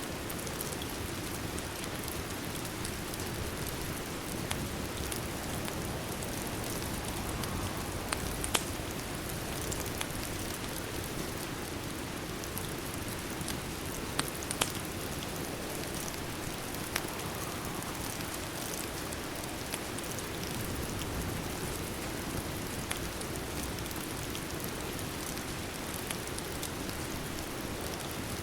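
Steady rain falling, an even patter, with a few sharp clicks or pops scattered through it.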